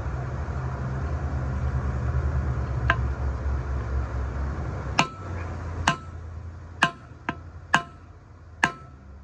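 Light hammer taps on a wheel bearing, driving it down into a full-floating rear axle hub until it seats against the C-clip. About seven sharp, ringing metal strikes come one by one, one after about three seconds and the rest in the second half. A low background rumble drops away about halfway through.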